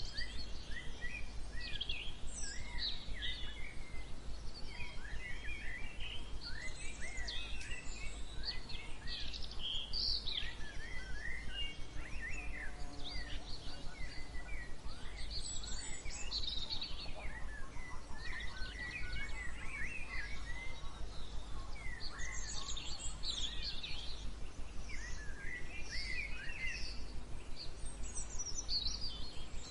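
Many songbirds singing and chirping at once in a morning chorus, with short, overlapping, rising and falling phrases throughout. A steady low rumble runs underneath.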